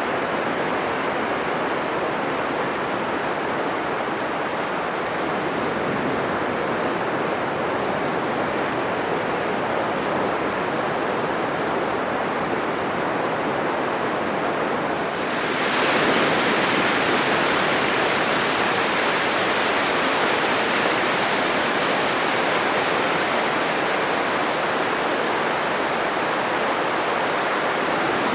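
Atlantic surf breaking on a sandy beach: a continuous rush of waves that turns suddenly louder and brighter about halfway through and stays so.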